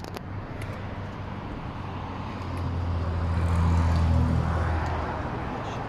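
A motor vehicle's engine hum, low and steady, swells about two and a half seconds in, peaks, then fades again, like a car passing close by.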